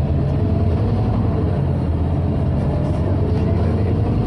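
Scania OmniCity city bus under way, heard inside the cabin: a steady low diesel engine drone with cabin hum.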